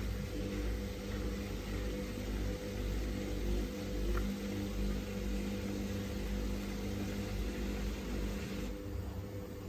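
Samsung WF1700WRW front-loading washing machine running mid-cycle, a steady motor hum with a whir over it. Near the end the higher hiss drops away suddenly while the low hum goes on.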